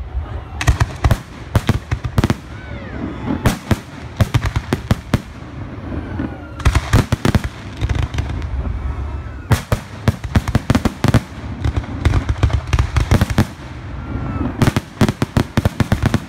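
Fireworks display: volleys of sharp bangs and crackling shell bursts, coming in clusters every couple of seconds over a low rumble.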